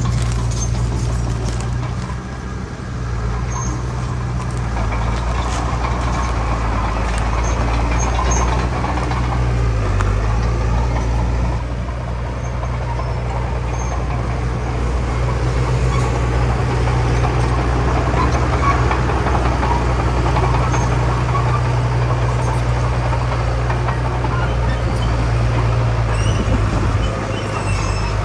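Heavy diesel earthmoving machinery (bulldozer and dump trucks) running under load with a steady low engine drone; the engine note dips and recovers about ten seconds in.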